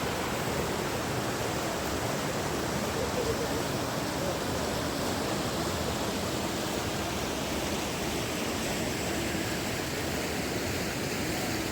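Steady rushing of flowing water, even and unbroken, with faint distant voices under it.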